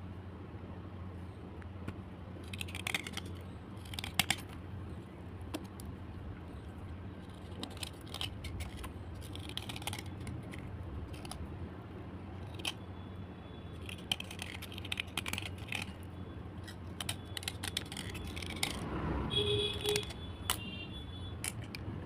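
Slate pencils being scraped clean of their coloured coating: irregular short scraping strokes and light clicks over a steady low hum. A brief tone with several pitches sounds near the end.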